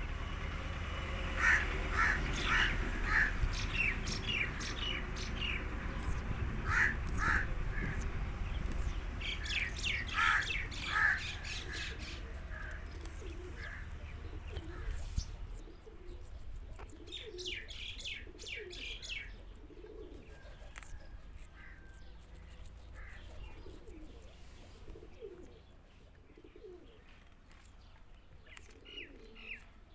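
Indian ringneck parakeet calling: clusters of short, sharp, high chirps, loudest in the first half, over a low steady hum that stops about halfway through. After that come softer, low repeated calls and a few more chirps.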